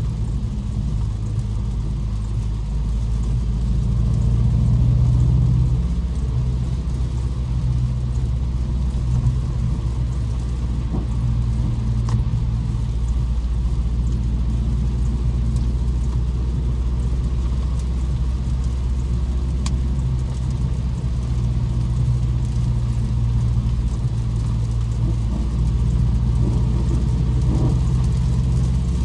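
BMW M550i's twin-turbo V8 running steadily at low revs while driving, a continuous low drone with a slight swell about four to five seconds in.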